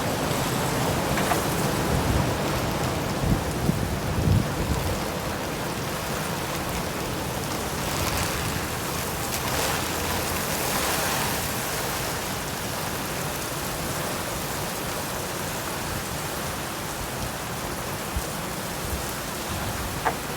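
Heavy rain and high wind of a severe thunderstorm: a steady rushing hiss, with low rumbles in the first few seconds and a louder swell around the middle.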